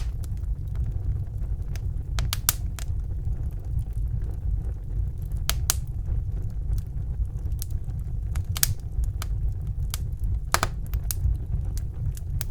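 Wood fire burning in a fireplace: a steady low rumble of the flames with irregular sharp crackles and pops from the burning logs, a few in quick clusters.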